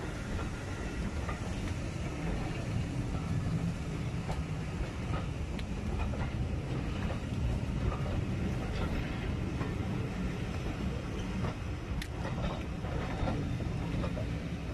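Railway passenger coaches rolling past close by: a steady low rumble with irregular clicks and knocks from the wheels and running gear, one sharper click near the end.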